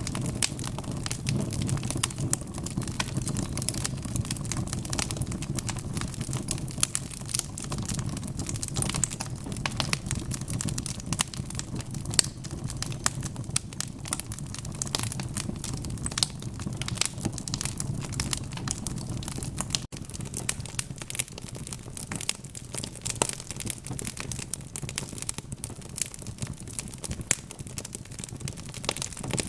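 Wood fire crackling, with dense irregular snaps and pops of burning logs over a low steady rumble of flames. There is a momentary break in the sound about twenty seconds in.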